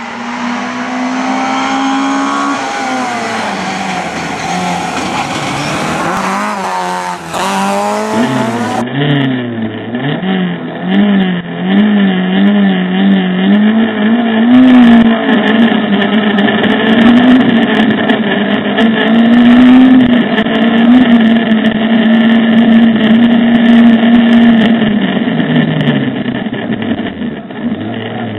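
A car engine revving, rising and falling in pitch. About nine seconds in this gives way to the in-car sound of the Mercedes 190E rally car's engine at full effort on a special stage, its pitch climbing and dropping again and again as the driver accelerates, shifts gear and lifts for bends.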